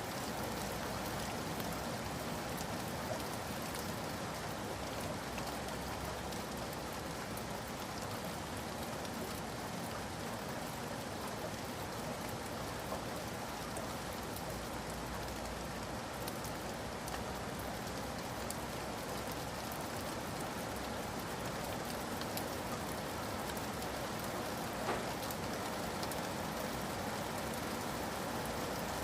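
Steady rain falling, a dense even patter with individual drops ticking throughout.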